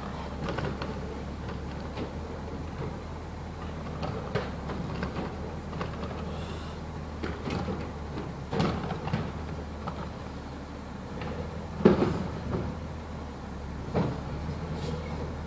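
Garbage truck's diesel engine running steadily while yard waste is loaded, with scattered knocks and clunks; the loudest bang comes about twelve seconds in.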